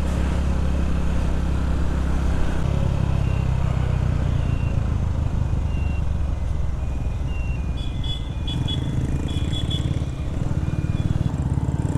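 Small Chinese single-cylinder motorcycle engine running steadily as the bike rides through traffic, its pitch shifting about two and a half seconds in. Short high beeps come and go in the second half.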